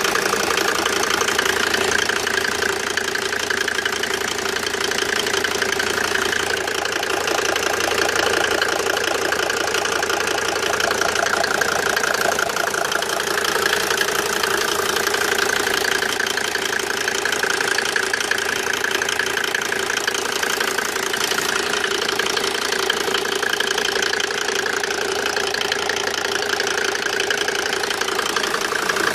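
Mercedes-Benz OM605 five-cylinder turbodiesel engine running steadily at an even speed, with a steady tone heard throughout; this is the strange engine noise the owner wants identified.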